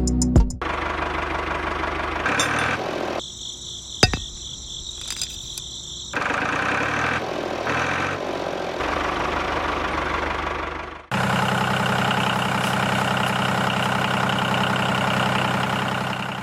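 Small motor-driven machinery running with a steady hum and whir, changing abruptly several times as if in separate short shots; one stretch about three to six seconds in carries a high whine.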